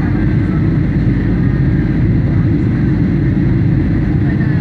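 Boeing 737 airliner cabin noise: a steady, loud, low rumble of the engines and airflow, unbroken throughout.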